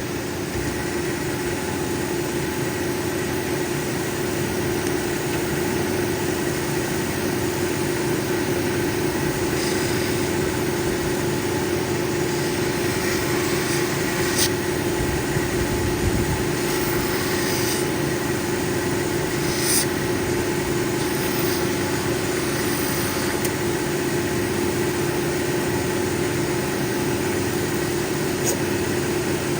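Cabbing machine motor running with a steady hum as its grinding wheels spin. A few brief scratchy clicks about halfway through come from the opal being worked against a wheel.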